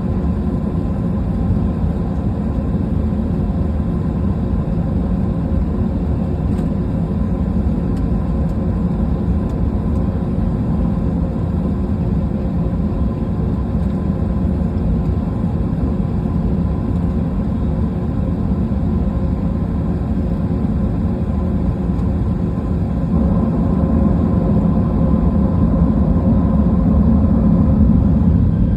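Steady cabin drone inside an Airbus A320: engine hum and rushing air, with a faint steady whine on top. It grows a little louder about three quarters of the way through.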